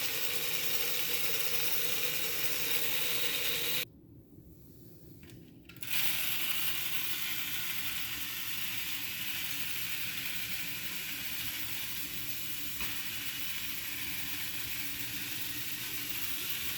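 Battery-operated bump-and-go toy truck running: its small electric motor and plastic gears whirr and rattle steadily as the toy engine's pistons move. About four seconds in the sound drops away for roughly two seconds, then starts up again and runs on steadily.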